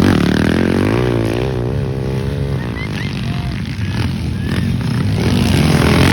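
Motocross bike engines running under throttle, their pitch rising and falling as the riders open and close the throttle.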